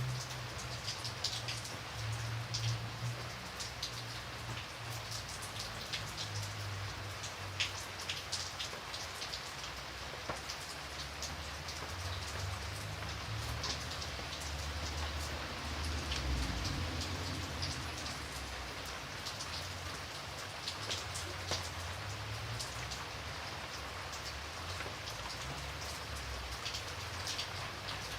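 Steady rain falling, with many separate drops ticking on a surface over a low rumble.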